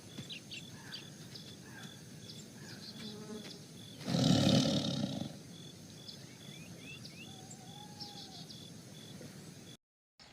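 A wild animal gives one loud, low call lasting about a second, about four seconds in. Scattered short chirps and a steady, repeating high note sound throughout.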